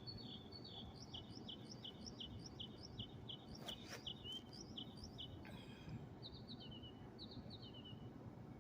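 A bird singing at night: a run of short, high, repeated chirps, about three a second, switching about six seconds in to a different phrase of quick chirp pairs, over a faint low background hum.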